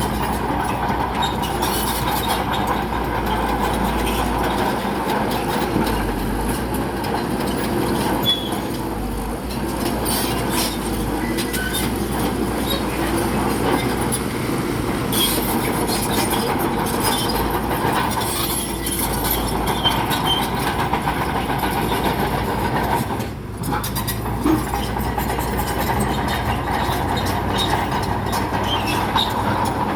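Crawler bulldozer working, its diesel engine running steadily while the steel tracks clank and rattle and stone knocks against the blade, a continual irregular clatter.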